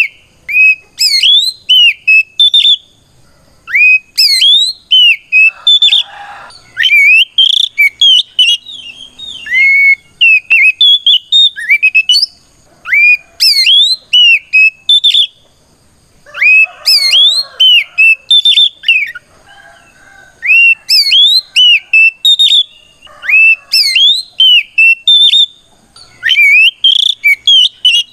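Oriental magpie-robin (kacer) singing a loud full song of the 'ngeplong' kind: phrases of clear whistled notes that sweep sharply upward, delivered in bursts of a second or two with short pauses between. It is a fighting song that challenges a rival bird.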